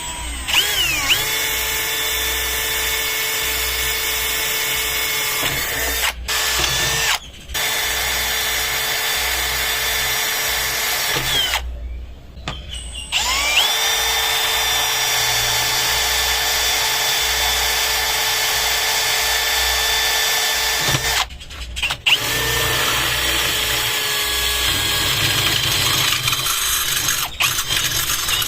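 Electric angle grinder cutting 1/8-inch steel plate, a loud steady motor whine over grinding noise. It spins up and winds down around three short pauses.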